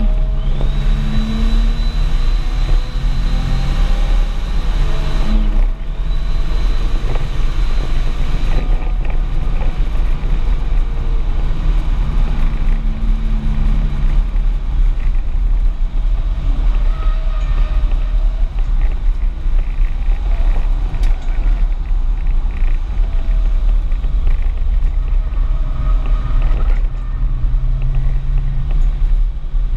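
Audi S4 at speed on a race track, heard from inside the cabin: a loud, constant low rumble of engine and road noise, with the engine note rising and falling through acceleration and lifts. A thin high whine sits over it for roughly the first eight seconds.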